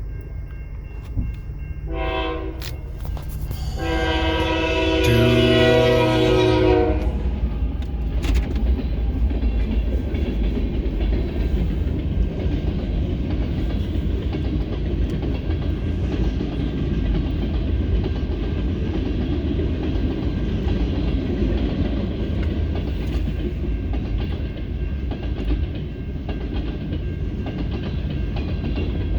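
CSX freight train at a grade crossing. The locomotive's air horn sounds a short blast about two seconds in and a longer, louder blast from about four to seven seconds. After the horn stops, the locomotives and freight cars rumble steadily past, with wheels clicking over the rail.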